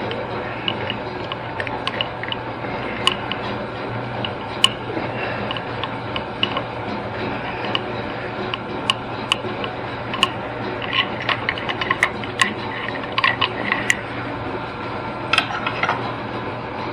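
Scattered light metallic clicks and taps of parts being handled on an old engine, coming in quicker clusters in the second half, over a steady background hum.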